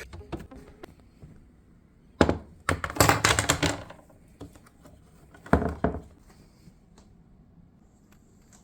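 Refrigerator shelves being handled: a knock about two seconds in, a short burst of rattling knocks, then another clatter a few seconds later.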